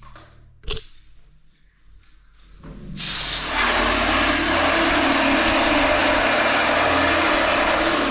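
A single knock, then about three seconds in a hot-water hose is switched on and sprays inside a stainless-steel bulk milk tank, a sudden loud, steady rush of water that holds on.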